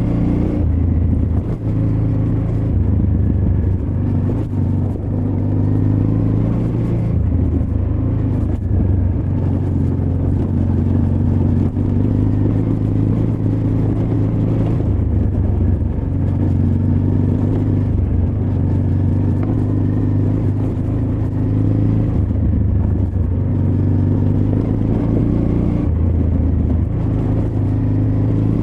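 Honda Transalp XL600V's V-twin engine running under varying throttle on a rocky off-road trail, its note rising and falling as the rider opens and closes the throttle.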